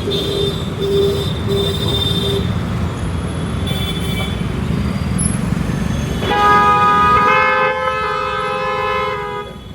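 Vehicle horns honking in road traffic over a steady low traffic rumble. A horn gives a few short beeps near the start, then a louder horn blares steadily for about three seconds in the second half and stops just before the end.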